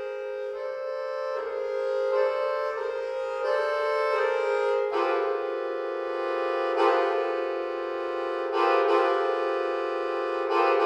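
Solo accordion playing sustained chords that change every second or so, growing louder about halfway through with several accented swells.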